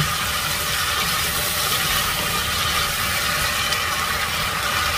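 Diced potatoes and smoked sausage frying in oil in a nonstick pan: a steady sizzle while they are stirred with a silicone spatula to brown them.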